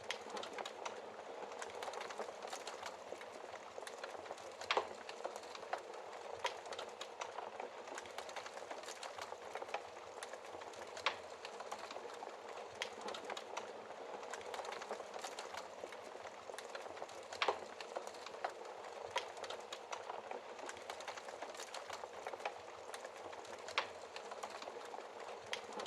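Fire in a fireplace crackling steadily: a dense run of small crackles with a sharper, louder pop every several seconds.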